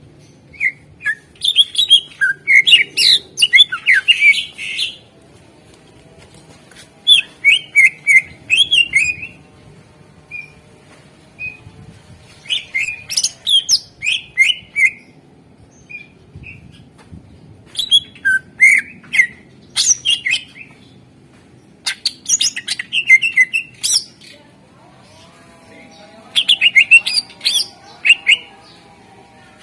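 Greater green leafbird (cucak ijo) singing in loud bursts of fast, chattering, whistled notes. There are about six bursts, each a few seconds long, with short pauses between them.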